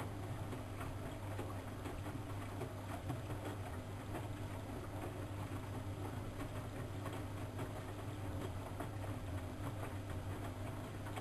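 Siemens Siwamat 6143 washing machine running: a steady motor hum with a constant rapid light clicking and rustling from the turning drum.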